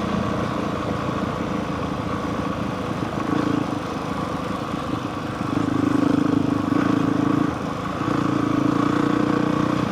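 Honda CRF450R single-cylinder four-stroke dirt bike engine running under way, growing louder in stretches about five and a half seconds in and again about eight seconds in as the throttle is opened.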